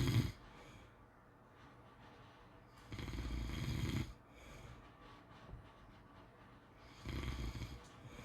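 Pit bull snoring in its sleep: one snore tails off at the start, then two more come about three and seven seconds in, each lasting about a second, with quiet breathing between.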